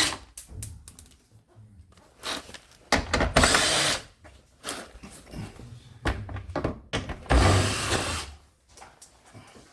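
Power drill spinning in two bursts of about a second each, backing out the bolts under a car's front bumper, with clicks and knocks of handling between the runs.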